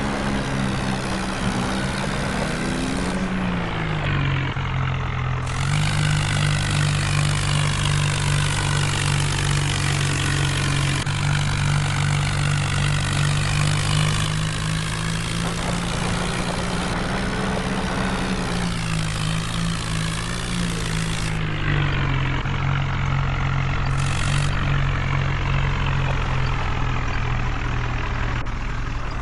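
Tractor diesel engine running under heavy load. Its pitch drops a few seconds in, then rises and falls again about two-thirds of the way through.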